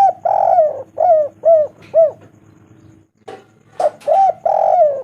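Spotted dove (tekukur) cooing: two calling phrases, each a run of short arched coos with one longer drawn-out coo, separated by a pause of about a second in the middle.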